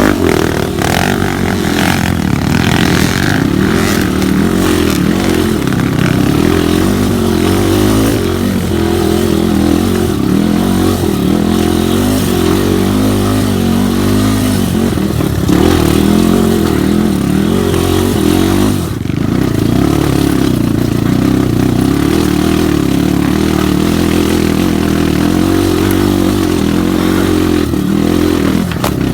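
Off-road trail motorcycle engine running continuously under changing throttle, its pitch rising and falling, with a short drop about nineteen seconds in.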